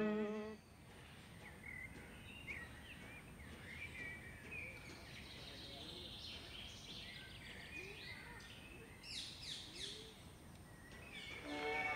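Faint outdoor ambience with birds chirping: scattered short calls, and a quick burst of high, rapid chirps about nine seconds in. Chanted singing fades out at the start, and music comes in near the end.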